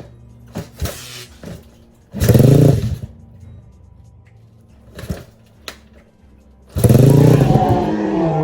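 Single-cylinder engine of a custom Honda Grom-style mini bike with a racing exhaust, revved twice on a cold, winter-untuned carburettor. The revs rise and fall away: first a short burst, then a longer one near the end. A few light knocks come between them.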